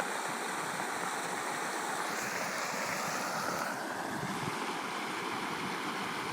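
Steady rush of a muddy flash flood flowing across a road, the water thick with mud and debris.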